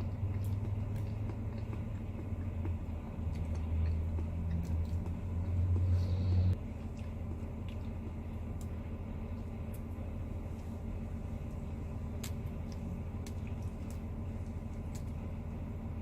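Semi-truck's diesel engine idling, heard from inside the cab: a low steady rumble that is heavier for the first six seconds or so, then drops abruptly to a lower, even hum, with a few faint clicks.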